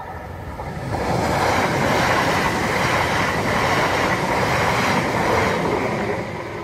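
Electric passenger train passing over a level crossing: wheel-on-rail noise swells about a second in, holds steady while the carriages go by, and fades near the end.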